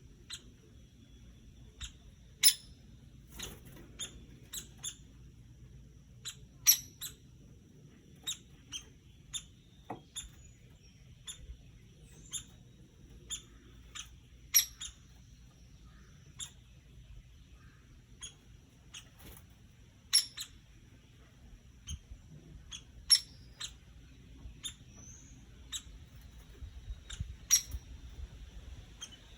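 Woodpecker making sharp, short clicking sounds at irregular intervals, roughly one every second or so, over a faint steady high tone.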